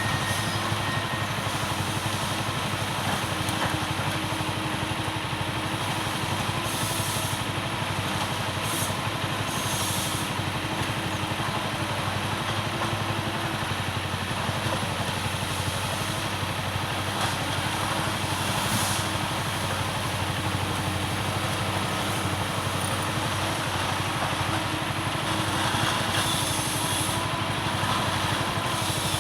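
Forestry harvester's engine running steadily under work, with a few brief rushes of higher-pitched noise along the way.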